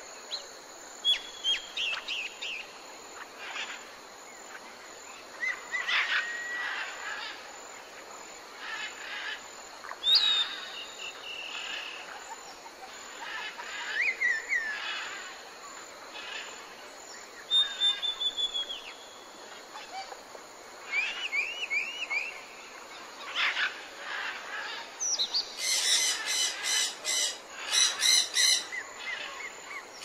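Birds chirping and calling: short high whistled notes and chirps at intervals, some sliding down in pitch, then a fast run of rapidly repeated calls over the last few seconds.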